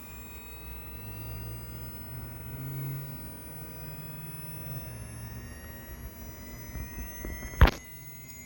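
Gyro flywheel of a Losi 1/4-scale Promoto-MX RC dirt bike spinning up, a high whine like a small turbine jet that slowly rises in pitch over a low hum. A single sharp click near the end.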